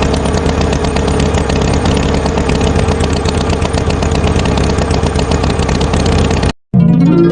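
Cartoon tractor engine running, a loud steady rapid chugging rattle that cuts off suddenly near the end.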